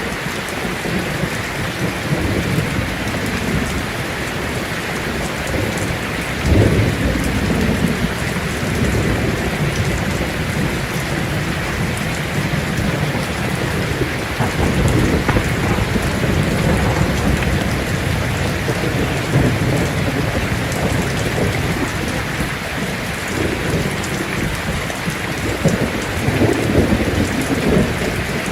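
Heavy rain drumming steadily on a tin roof, with rolls of thunder rumbling through it: a sharp, loud crack about six and a half seconds in, and further long rumbles in the middle and near the end.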